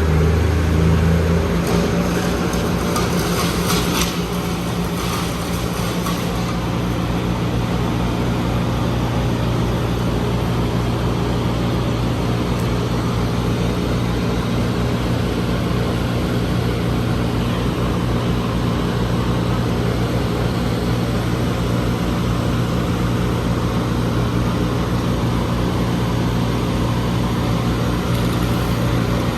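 A heavy diesel engine running steadily at a constant speed, a low even hum that does not change.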